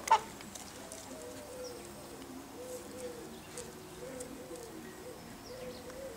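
A bird calling with a string of soft, short, low notes, about two a second, after a loud short sound right at the start.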